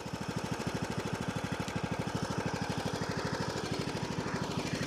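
John Deere LA105 riding mower's engine running steadily, with an even, fast pulsing beat.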